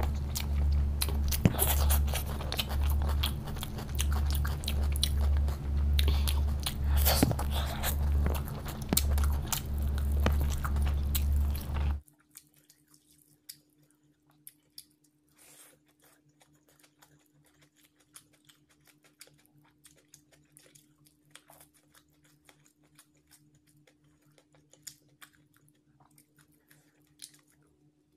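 Close-miked eating sounds: a person chewing and biting mouthfuls of chicken biryani, with many quick mouth clicks over a low hum. About twelve seconds in, it cuts to a much quieter recording of eating, with only sparse faint mouth clicks over a faint steady hum.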